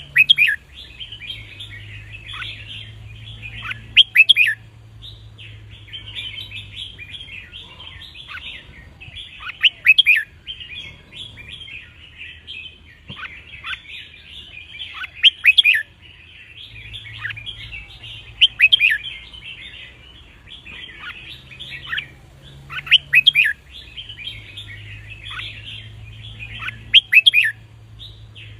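Red-whiskered bulbul song: loud, quick whistled phrases repeat every few seconds over steady background chirping and chattering.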